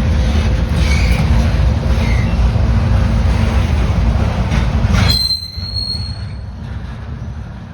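A train rolling past with a loud, steady rumble of wheels on rail. About five seconds in the rumble drops away suddenly and a brief high squeal rings out.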